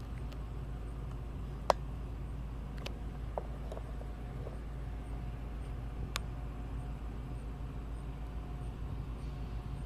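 Metra bilevel commuter train rolling away at low speed: a steady low rumble, broken by a few sharp clicks, the loudest a little under two seconds in.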